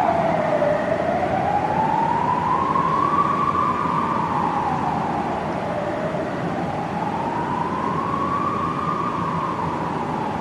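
Police siren in slow wail mode: one tone glides down, then up, then down again, a full rise and fall taking about five to six seconds, over a steady background rumble. It grows slowly quieter.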